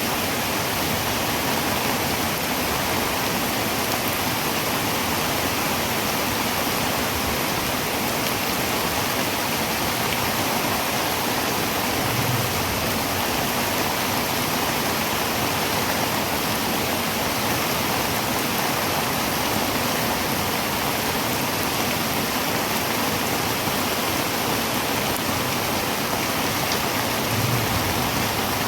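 Heavy rain drumming steadily on a tin roof, a dense even hiss with no let-up. Two brief low thumps come in, one about halfway and one near the end.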